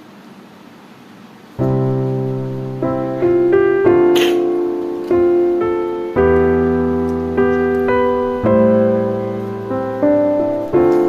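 Background piano music: sustained chords and melody notes struck at an even, gentle pace, coming in about one and a half seconds in after faint room noise.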